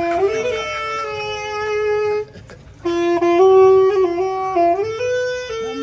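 Saxophone playing a slow melody of held notes, stepping between pitches, with a short pause about two seconds in before the next phrase.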